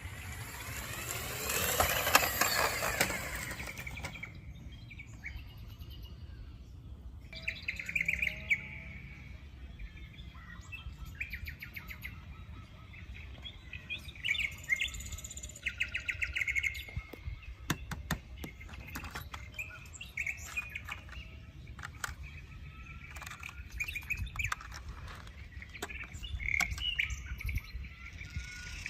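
Small birds chirping and trilling repeatedly, with a loud rushing sound in the first few seconds and a few sharp clicks about midway.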